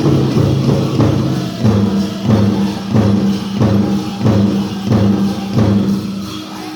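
Powwow drum struck in unison by a drum group, a steady beat of about one and a half strokes a second; the beats stop near the end.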